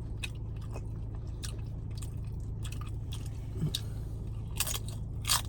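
Close-miked chewing of nachos, tortilla chips with seasoned beef and queso, with scattered crunches and wet mouth clicks over a steady low hum.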